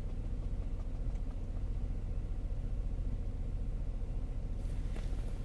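Saab 9-5's B235R 2.3-litre turbocharged four-cylinder engine idling steadily, still warming up minutes after a cold start at −6 °C. A brief hiss and a click come near the end.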